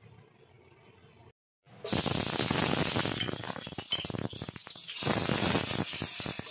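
Chopped red onion and garlic sizzling in hot oil in a frying pan, stirred with a spatula. After a faint start, the sizzling starts suddenly about two seconds in and stays loud and crackling.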